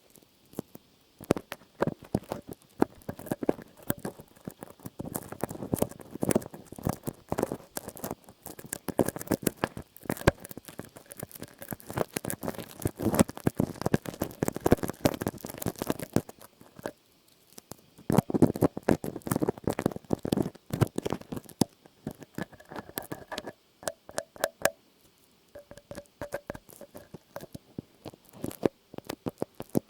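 Close-miked ASMR trigger sounds: dense, irregular crackling and clicking with a soft rustle, coming in busy stretches with short lulls.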